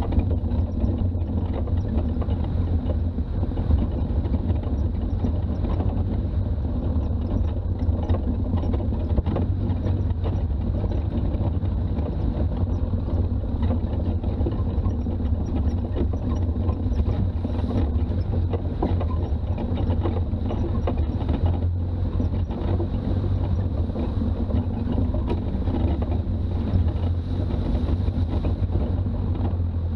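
Toyota BJ40's diesel engine and road noise while driving, a steady low drone without change.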